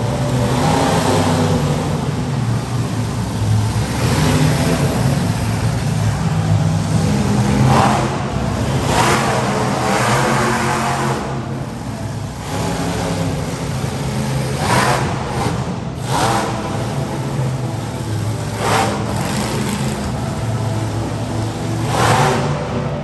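Bigfoot monster truck's engine running and revving hard, the revs rising and falling throughout. There are several sudden loud bursts, about eight in all.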